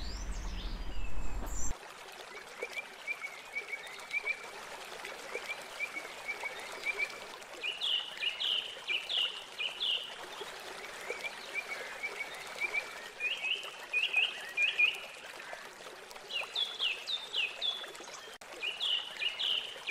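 A small bird singing short phrases of quick, high chirps again and again over a steady hiss of trickling water. A louder sound is cut off abruptly about two seconds in.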